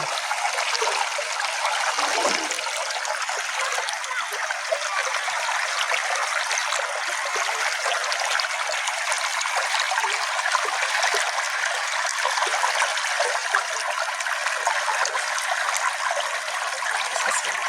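Small stream flowing and trickling steadily over stones.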